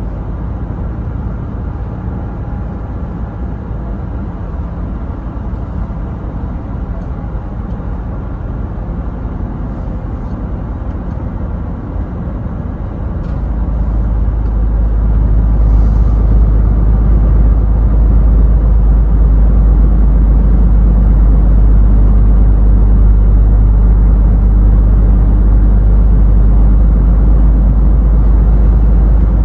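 Scania truck on the move: a steady engine and road rumble that grows louder and deeper about thirteen seconds in.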